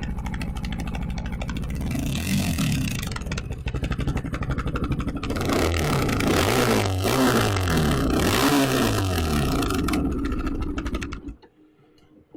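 CPI GRX250 single-cylinder motorcycle engine running through its YRS oval exhaust, revved up and let fall back several times to show off the exhaust note. The engine then stops about eleven seconds in.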